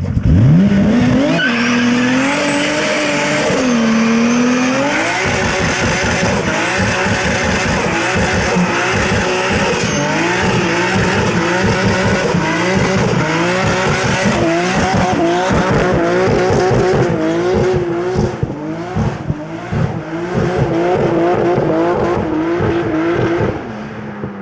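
Nissan Skyline R33 GTST's RB25DET turbocharged straight-six revved hard in a burnout, with the rear tyres squealing continuously. The revs shoot up in the first second, then are held high, wavering and stuttering, until the engine backs off near the end.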